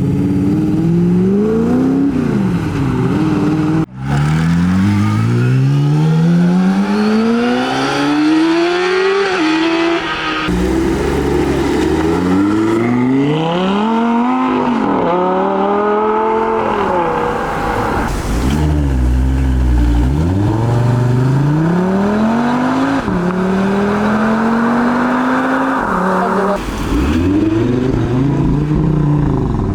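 High-performance car engines accelerating hard one after another. The pitch climbs, then drops at each gear change, and the sound switches abruptly from one car to the next a few times.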